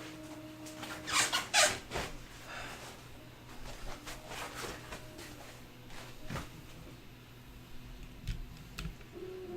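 Printer packaging being handled: loud rubbing and squeaking, as of foam or cardboard, about a second in, then a few scattered knocks and clicks.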